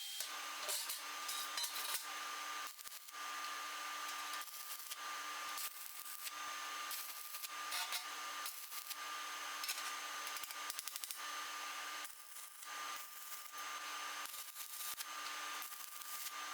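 Stick (shielded metal arc) welding with a cheap 100 V inverter welder and 2.0 mm Kobelco Zeroad 44 rods: a steady crackling, sizzling arc that starts and stops abruptly.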